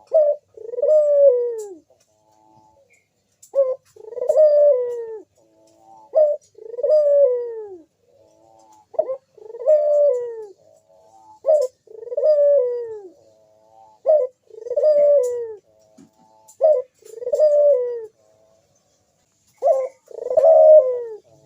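Crossbred puter (Barbary or ringneck) dove cooing over and over, about eight calls, each a short clipped note followed by a longer falling coo, one every two to three seconds.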